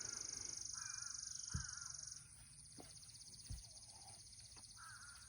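Crows cawing now and then over a steady, pulsing high-pitched buzz, which drops in level about two seconds in. Two soft low thumps come about two seconds apart.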